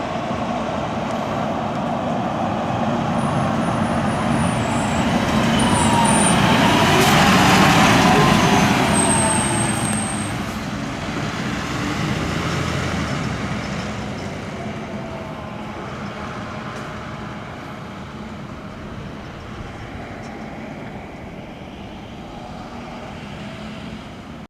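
Fire engine driving past, its engine and road noise building to a peak about eight seconds in and then slowly fading away.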